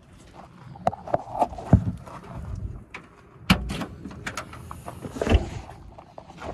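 A string of sharp knocks and clunks from things being handled and set down, loudest about halfway through and again near the end.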